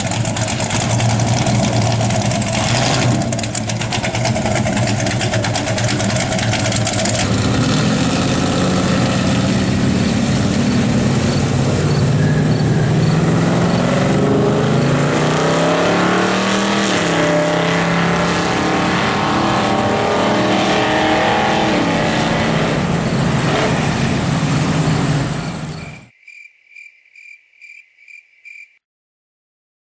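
Car engine running and accelerating, its pitch rising and falling in several glides partway through. It cuts off suddenly near the end and is followed by a short run of high beeps, about three a second.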